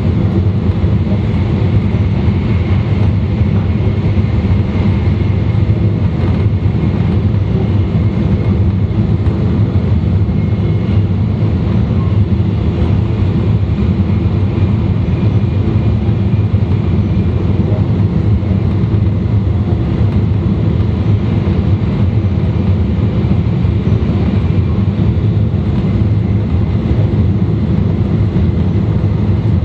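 E2-series Shinkansen running noise heard from inside the car's vestibule deck: a steady, loud rumble of wheels, track and motors. A faint high whine sits over it in the first third and fades away.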